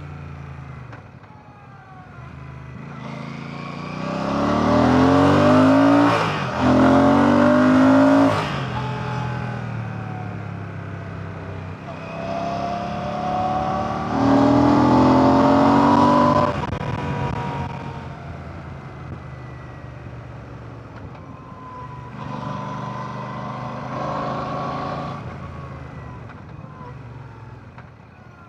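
Royal Enfield Classic 650's 648 cc air/oil-cooled parallel-twin engine on the road, accelerating hard three times with the pitch rising each time. The first pull is cut by a quick upshift partway through. Between the pulls the engine rolls off the throttle and the pitch falls.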